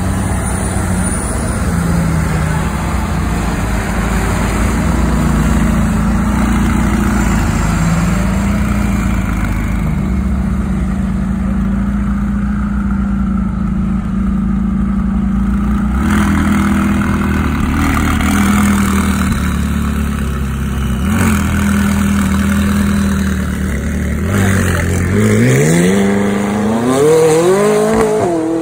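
Engines of cars driving out close by, running and pulling away one after another, with a McLaren twin-turbo V8 passing about halfway through. Near the end one engine revs hard, its pitch climbing steeply for about three seconds.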